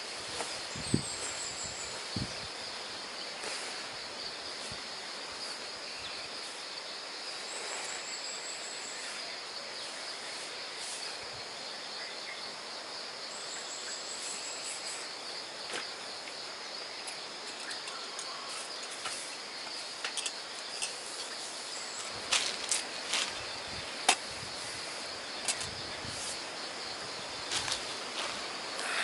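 Steady chorus of insects, a continuous high buzz, with a few short high chirping trills over it. Scattered clicks and knocks come in the last third.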